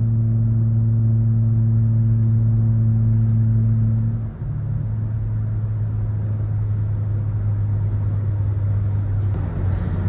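Car engine and exhaust droning steadily at cruising speed, heard from inside the cabin over road noise, with a brief dip and a slight drop in pitch about four seconds in.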